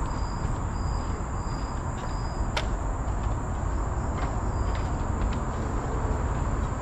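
Steady, high-pitched drone of insects in tropical forest, with short repeated higher chirps, over a low rumble. One sharp click comes about two and a half seconds in.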